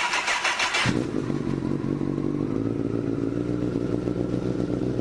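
2011 Honda CBR1000RR's inline four-cylinder engine on a cold start: the starter cranks rapidly for about a second, then the engine catches and settles into a steady idle.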